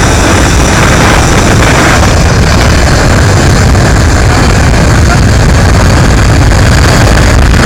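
McDonnell Douglas MD-82 jet airliner's rear-mounted Pratt & Whitney JT8D turbofans running at takeoff power: a very loud, steady jet noise with a heavy low rumble that holds level throughout.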